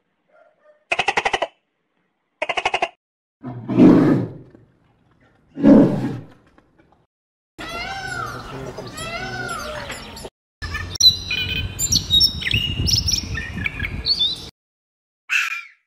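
A series of different animal calls. First come short, rapidly pulsed calls, then two loud low calls. After them come arching bird calls and a busy stretch of high-pitched birdsong chirps.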